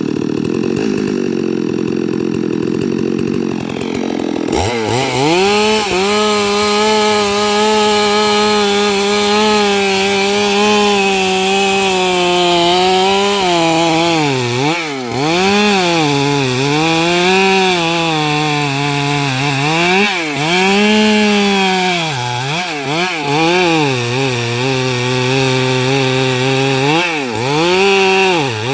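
Stihl MS 382 two-stroke chainsaw cutting eucalyptus logs lengthwise at full throttle. About four and a half seconds in the sound changes abruptly to a strong engine note whose pitch repeatedly drops and recovers as the chain bogs in the wood and frees up again.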